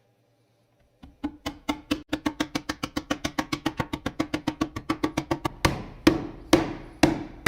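Wood being struck by hand: a quick run of sharp knocks, about five or six a second, then slower, heavier blows about two a second, each ringing briefly.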